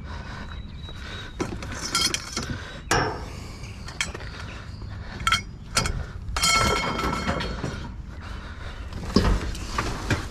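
Junk being rummaged through in a dumpster: hard loose objects clinking and clattering, with several sharp knocks at uneven intervals, a few of them ringing briefly.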